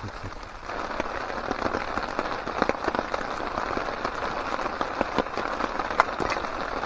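Steady rain pattering, with scattered heavier drops landing as sharp ticks; it grows louder just under a second in.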